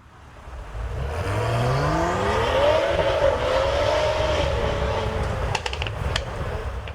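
Car engine accelerating, its pitch rising steadily for about three seconds and then holding level. Several sharp pops come near the end.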